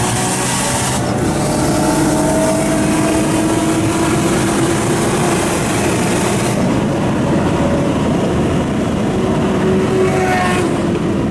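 Nissan Skyline R32 GT-R's twin-turbo straight-six heard from inside the cabin at highway speed, its pitch climbing slowly as it pulls in gear. Heavy wind and road noise run under it, and the high hiss drops about six and a half seconds in.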